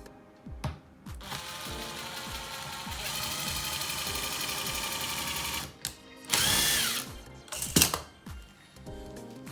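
A handheld power tool, of the drill or driver kind, runs steadily for about four seconds, then runs again in a shorter, louder burst, with a few sharp clicks just after. Background music plays underneath.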